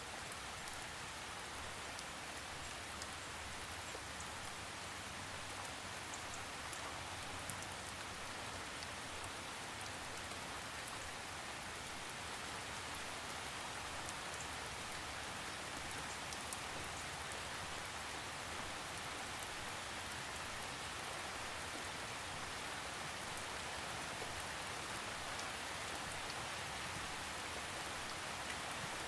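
Steady rain falling, with a continuous hiss of drops and faint scattered patter, no thunder.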